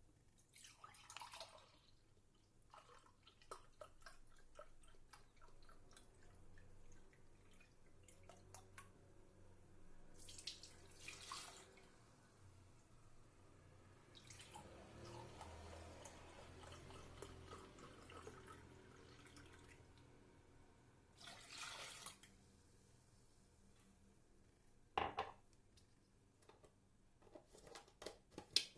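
Faint kitchen sounds near silence: a few short splashes of water and small knocks, with a sharp click near the end.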